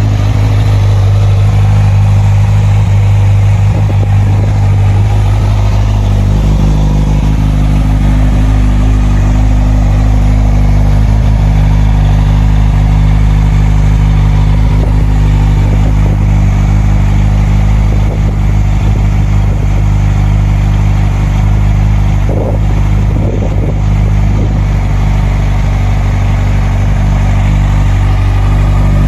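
Kawasaki Z1000SX inline-four engine idling steadily and loud through a carbon fibre PowerTech aftermarket exhaust with its dB killers removed.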